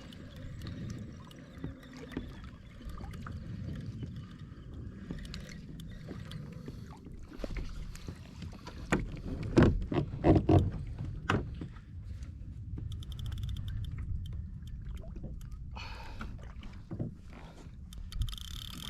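Water sloshing against a kayak hull, with a cluster of sharp knocks and clatters about nine to eleven seconds in.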